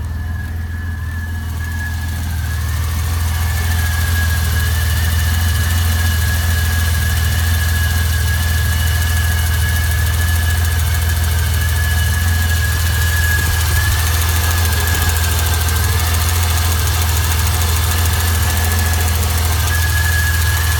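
BMW M30B35 3.5-litre straight-six idling steadily after a cold start, with a thin, steady high whistle over the engine's hum. The owner takes the whistle for a possible vacuum leak, suspecting the valve cover or intake manifold gaskets.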